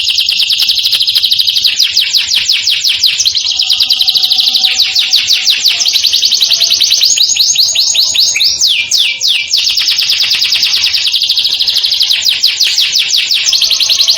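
Domestic canary singing a long unbroken rolling song of fast trills, very rapidly repeated high notes that switch to a new trill every second or two. A few slower, falling sweeps come in about nine seconds in.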